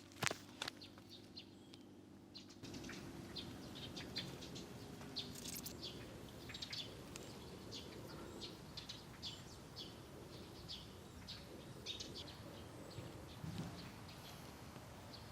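Small birds chirping faintly and sporadically over outdoor background noise, with a few sharp clicks in the first couple of seconds.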